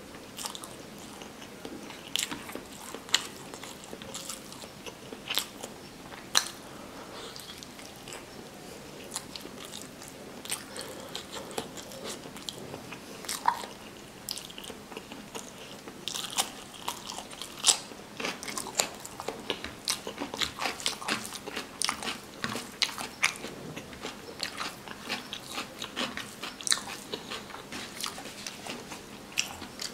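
Close-miked chewing and wet mouth sounds of a person eating rice and curry by hand, with many sharp clicks and smacks. From about halfway these come thicker, with crisp crunching as a raw cucumber slice is bitten.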